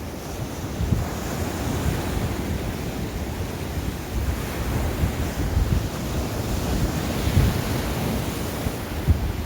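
Strong wind buffeting the microphone in gusts over the steady wash of waves breaking on a rough sea.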